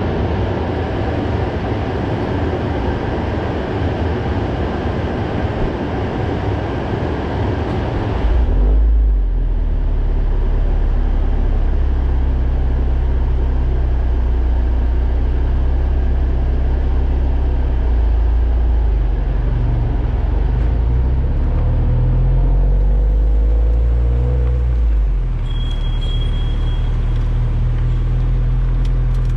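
Exhaust note of a Subaru WRX STI's turbocharged EJ20 flat-four through an HKS Super Turbo Muffler while driving. A broad rushing noise for the first eight seconds or so gives way to a deep low drone that steps up and down in pitch as the revs change.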